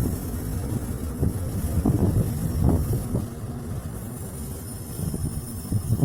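Low rumble of a diesel train locomotive running, swelling briefly a couple of seconds in, with wind buffeting the microphone.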